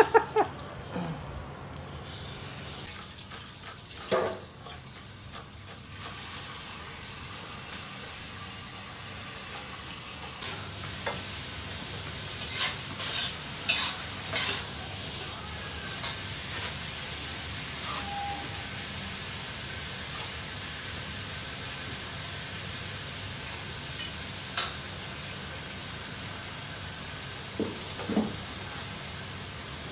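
Food sizzling steadily as it fries. Over it, a cleaver knocks on a wooden chopping board in a quick run of about half a dozen chops around the middle, with a few single knocks elsewhere.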